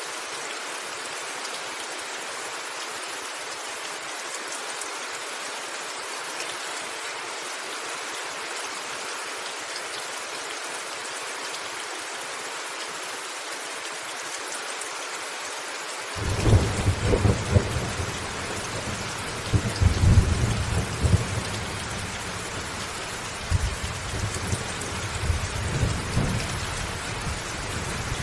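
Steady hiss of heavy rain on a roof. About halfway through, thunder breaks in suddenly and rumbles deep and low, swelling several times.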